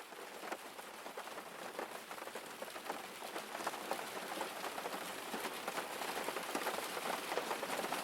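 Rain falling, a dense patter of many drops, growing gradually louder.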